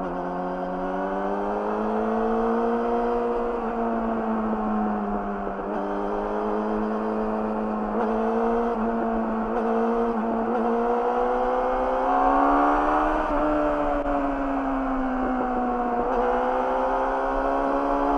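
Yamaha YZF-R6's inline-four engine through an Akrapovic slip-on exhaust, running under way at fairly steady mid revs. The pitch swells and sags gently as the throttle is eased and opened: it dips about six seconds in and again near the end, then climbs once more.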